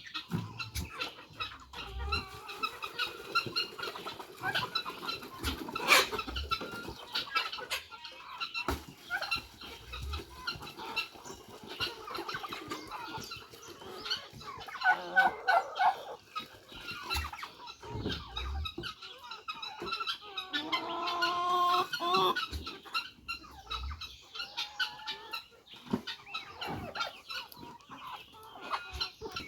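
A flock of chickens clucking and calling, with a louder drawn-out call about two-thirds of the way through and a sharp knock about six seconds in.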